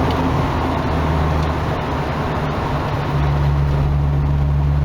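Nissan car's engine and exhaust running while driving, a steady low drone that grows stronger about three seconds in as the engine pulls harder. The exhaust runs an almost open rear box, so it is not quiet.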